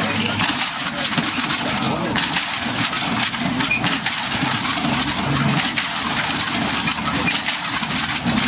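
Indistinct crowd chatter in the open air, with a car engine idling underneath.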